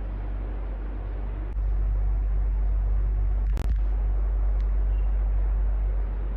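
Electric fan running steadily: a continuous whooshing noise with a deep low rumble. It gets louder about a second and a half in and eases back near the end, with one sharp click near the middle.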